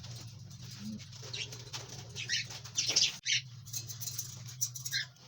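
Pet budgerigars chirping in short, scattered calls over a steady low hum.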